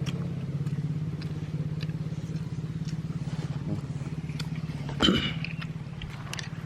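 An engine running steadily with a low pulsing hum that slowly fades a little, and a brief sharp sound about five seconds in.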